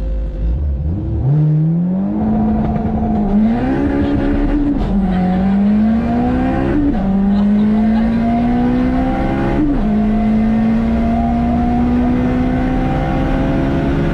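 Turbocharged K20A2 four-cylinder in a Honda Civic accelerating hard through the gears. The engine pitch climbs, drops at each upshift at about 3, 5, 7 and 10 seconds, then climbs again.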